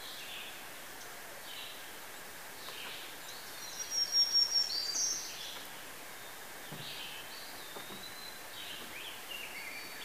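Birds chirping and whistling over a steady outdoor hiss, with the loudest burst of calls, a high whistle among them, about four seconds in.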